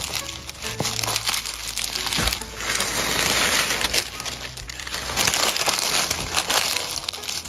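Dry leaves and forest litter rustling and crunching in uneven surges.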